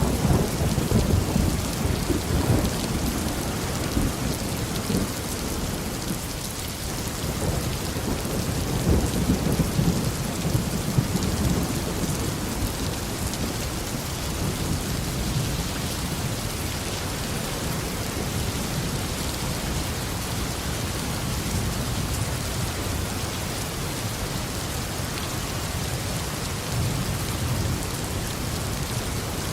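Tropical rain falling steadily, with thunder rumbling low through the first half, swelling near the start and again about ten seconds in, then easing off to leave the even hiss of the rain.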